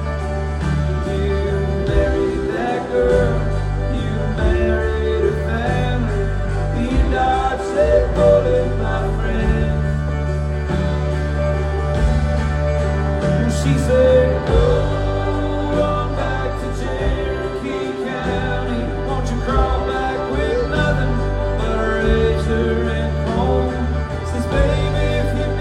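Live country band playing a song, with a steady bass and drum groove under melodic lines.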